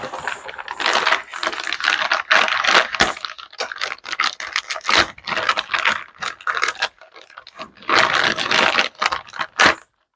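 Small plastic and metal RC truck parts clicking, rattling and scraping as they are handled and worked apart by hand, in irregular clusters with short pauses.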